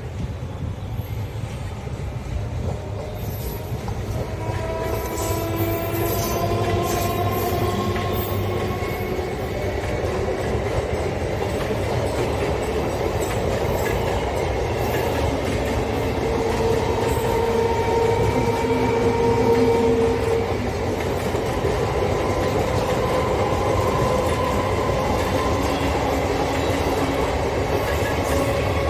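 Indian Railways passenger train's coaches running past on the track, their wheels rumbling and clattering on the rails. The sound builds over the first several seconds as the train draws level, then holds steady and loud, with faint drawn-out tones over the rumble.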